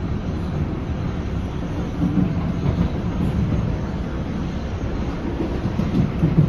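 Inside a PATH PA5 railcar as it runs along the track: the steady, low rumble of the wheels on the rails and the car body.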